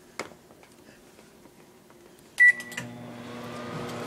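Microwave oven: a click shortly after the start, then a keypad beep about two and a half seconds in, after which the oven starts up and runs with a steady hum.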